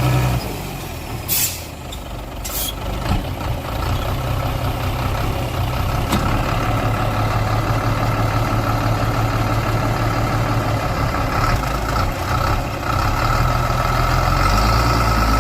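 Heavy off-road truck's diesel engine running under load during a cable pull in mud, dropping back at the start and building again toward the end. Two short hisses of released air, typical of air brakes, come about a second in and again a second later.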